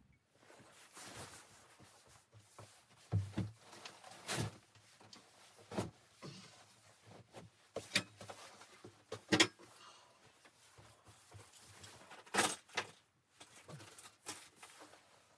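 Irregular sharp knocks and clunks of objects being handled, about eight spread unevenly over the stretch, with quiet between them.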